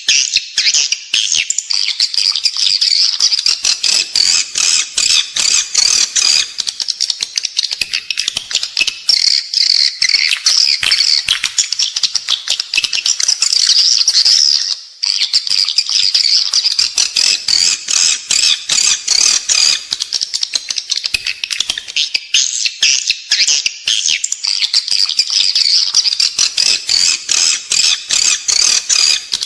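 Edible-nest swiftlets twittering in a dense, unbroken stream of rapid high chirps, with one brief break about fifteen seconds in. This is a swiftlet-house lure call, the in-building call played to draw swiftlets in to roost and nest.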